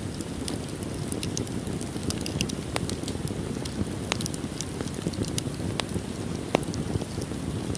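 Wood fire burning in a fireplace: a steady low rumble of flames with frequent sharp crackles and pops of the burning wood, one louder pop about six and a half seconds in.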